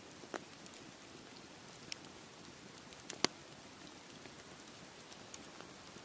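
Campfire crackling: a handful of sharp pops, the loudest about three seconds in, over a steady wash of sea waves.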